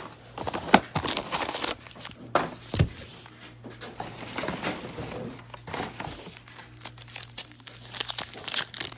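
Plastic shrink-wrap and packaging crinkling and tearing as a sealed box of trading cards is unwrapped and opened, with irregular crackles and a few sharp snaps.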